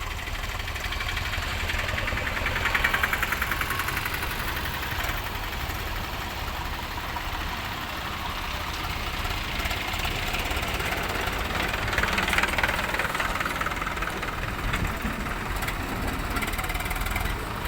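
Diesel engines of a farm tractor and a backhoe loader running steadily, with the rapid chugging growing louder about three seconds in and again about twelve seconds in.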